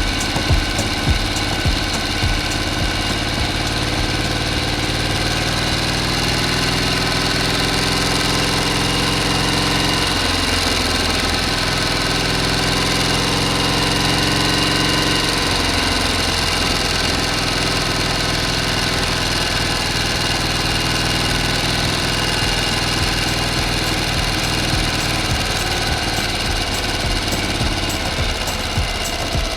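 Miniature model engine of a DIY water pump running steadily, its pitch shifting somewhat in the middle before settling again.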